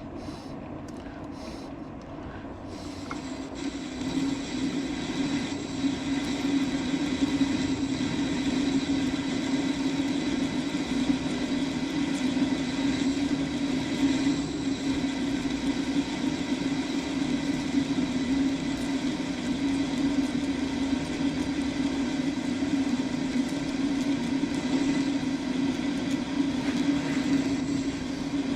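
Metal lathe running with a parting tool cutting into the spinning workpiece: a steady hum that grows louder about three to four seconds in and then holds.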